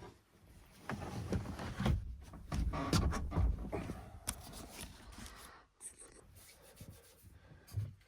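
Rustling and scraping of things being handled close by, with several sharp knocks, busiest in the first half.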